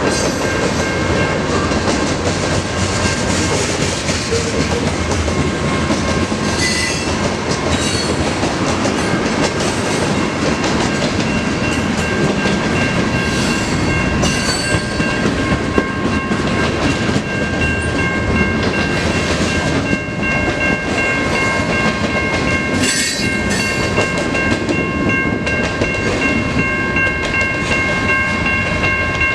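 A long freight train's cars roll steadily past: a continuous rumble of wheels on rail, with occasional sharp clicks and steady high ringing tones over it.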